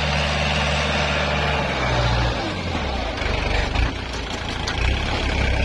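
Farm tractor engine running while it pulls a furrowing implement across a field; its low drone shifts in pitch about two seconds in.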